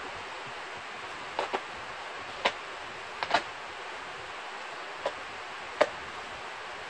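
Seven short, sharp clicks at irregular intervals, some in quick pairs, over a steady hiss.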